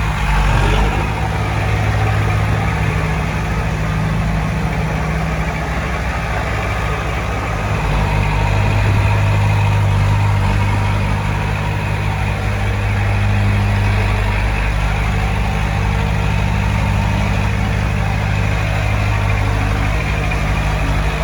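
Heavy-equipment diesel engine running steadily, its low note growing louder for a few seconds about eight seconds in.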